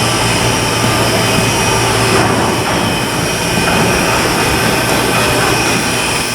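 Continuous machinery noise from shipbuilding work: a loud, steady rushing drone with a constant low hum and several high whining tones held throughout.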